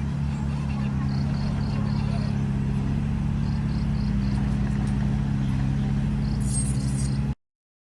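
Bulldozer's diesel engine running steadily with a low, even hum, with short runs of high chirps at about four a second over it. The sound cuts off abruptly near the end.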